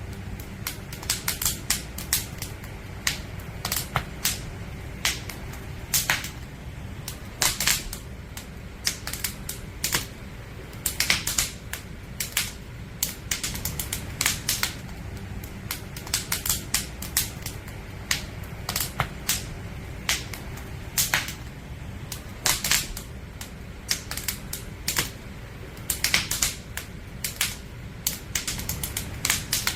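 Wood campfire burning, the firewood crackling with irregular sharp snaps and louder pops over a steady low rumble of the flames.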